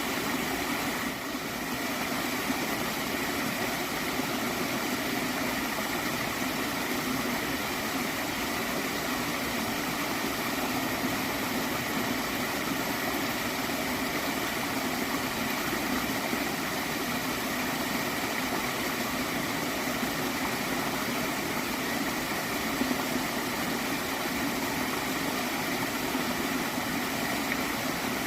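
Flowing water of a small stream, a steady, even rush with no breaks.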